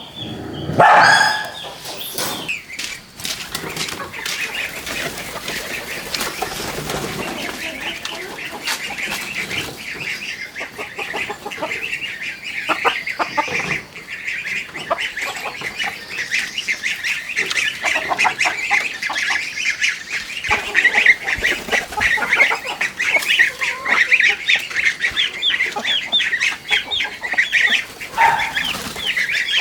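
A flock of farm poultry calling continuously, with many short calls overlapping into a dense chatter that grows busier as it goes on. There is one loud rising call about a second in.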